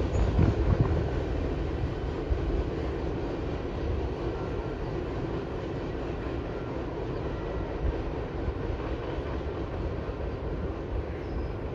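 Train rolling past, a steady low rumble of wheels on rail that eases off over the first few seconds and then holds level.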